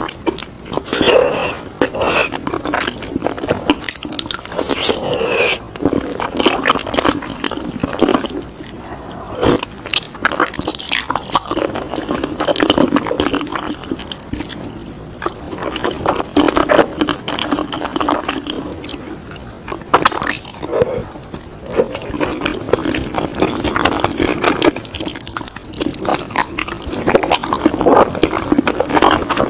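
A person chewing and biting soft-boiled eggs, with many small mouth clicks and smacks throughout.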